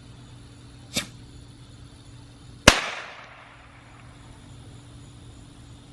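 Two firework bangs about a second and a half apart, the second much louder, with an echoing tail that dies away over about half a second.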